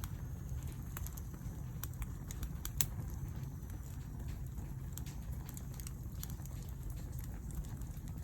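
Wood fire burning: scattered sharp crackles and pops over a low, steady rumble of flames, with one louder pop about three seconds in.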